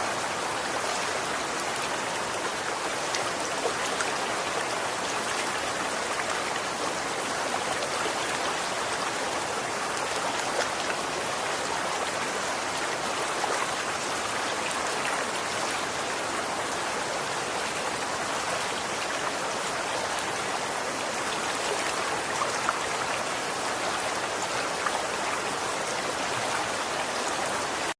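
Running water: a steady rushing, splashing noise with a few brief louder splashes standing out from it.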